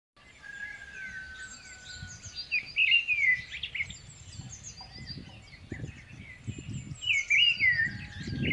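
Small birds chirping and twittering, with two louder bursts of song, about a third of the way in and again near the end, over uneven low background noise.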